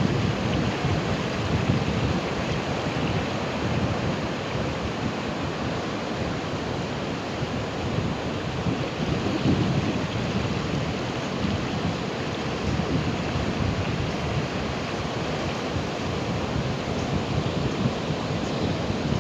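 Ocean surf: waves breaking and washing in a continuous rush, with a deeper surge of a breaker about halfway through.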